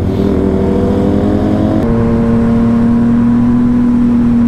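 Yamaha MT-09 SP's three-cylinder engine pulling under acceleration, its note rising slowly. About two seconds in the sound changes abruptly to a steady engine note held at constant speed.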